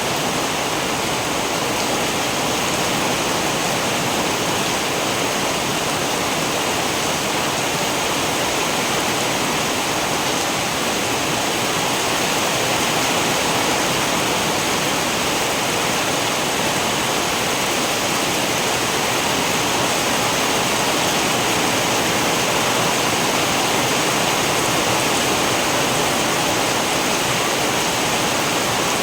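Steady rain falling, a dense even hiss that holds unchanged throughout.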